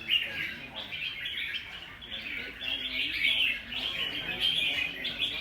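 Red-whiskered bulbuls singing fast, chattering competition song, several birds overlapping in quick chirping phrases.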